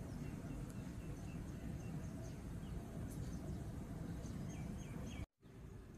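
Steady low outdoor background rumble with a few faint, short, high bird chirps, a small run of them about two seconds in and more near the end. The sound cuts out completely for a split second just after five seconds.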